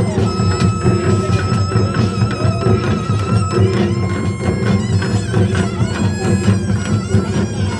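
Gyeongsang-do nongak band playing: a dense, driving rhythm of gongs and drums under a held, wavering wind melody, typical of a taepyeongso shawm.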